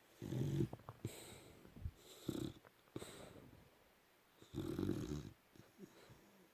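Boxer dog snoring in her sleep: two loud snores about four seconds apart, with softer snuffling breaths between them.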